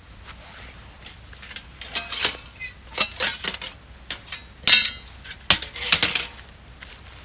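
Metal camp gear clattering and clinking as it is handled and packed away: a run of sharp knocks with short metallic ringing, loudest a little past the middle.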